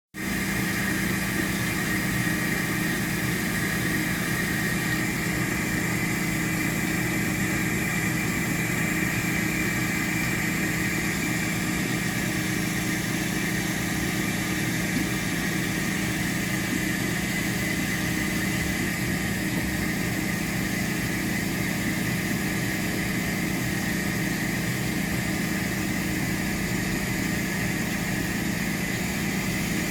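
Brastemp BWT09A washing machine running with a steady mechanical hum during the super rinse of its stain-removal cycle.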